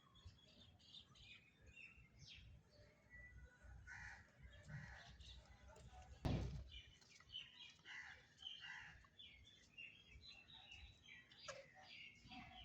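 Faint birdsong: many short chirps and calls from small birds throughout, with one dull thump about six seconds in.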